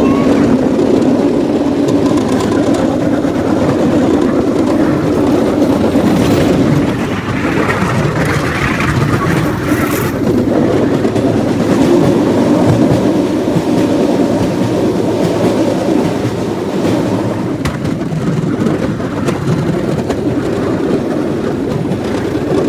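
Cambodian bamboo train (norry) running along the track: a steady loud drone from its small engine with rattling and clacking of the wheels over the rails.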